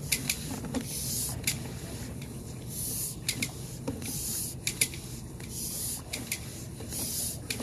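Sewer inspection camera's push cable being worked by hand: repeated hissing rubs about once a second, with sharp clicks in between.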